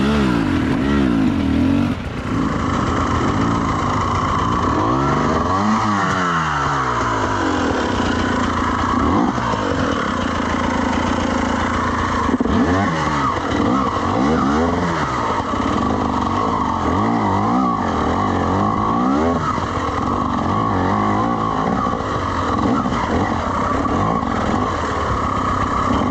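Two-stroke dirt bike engine being ridden, its revs rising and falling over and over with the throttle.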